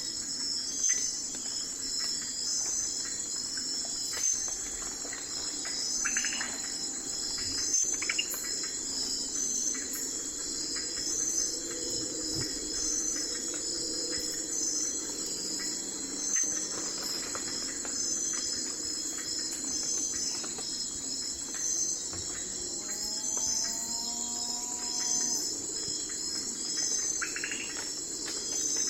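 Night forest ambience: a steady, pulsing chorus of crickets and other insects, with a few brief bird calls, one of them a pair of gliding notes about two-thirds of the way through.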